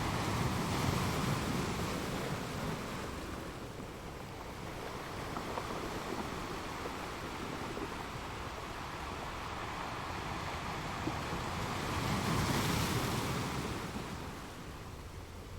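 Ocean waves breaking on a shore: a steady wash of surf that swells as one wave crashes near the start and another about twelve seconds in, easing off between them.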